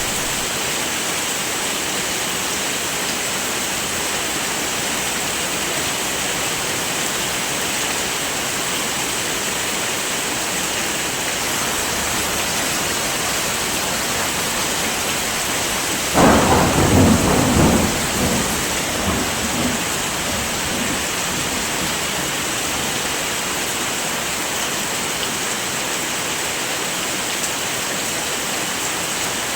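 Steady heavy rain falling, with a sudden thunderclap about halfway through that rumbles away over a few seconds.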